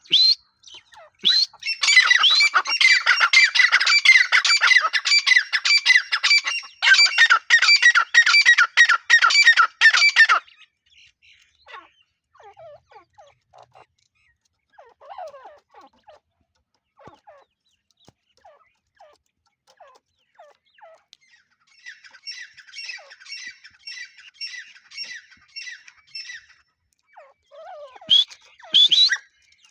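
Grey francolin (teetar) calling: a loud run of rapid, harsh repeated notes lasting about eight seconds, then scattered faint calls, a quieter run of rapid notes later, and loud rising calls near the end.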